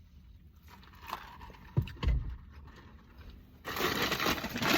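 Paper fast-food bag rustling and crinkling as someone rummages through it, preceded by two dull low thumps about two seconds in.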